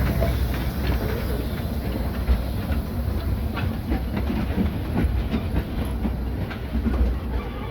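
Train hauled by steam locomotive 031T No. 3714 rolling along the track. Its wheels click and clack irregularly over the rail joints above a heavy, steady low rumble.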